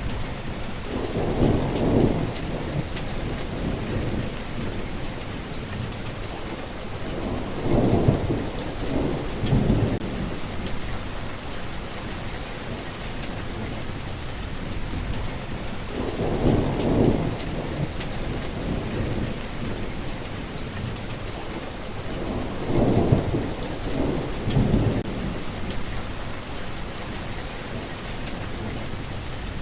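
Steady rain falling, with rolls of thunder rumbling low four times, every six seconds or so.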